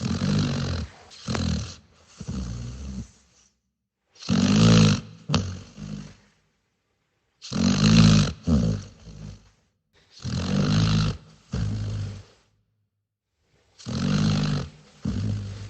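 Dog snoring: five snores about three to four seconds apart, each a long, low, pitched snore followed by one or two shorter ones, with complete silence in between.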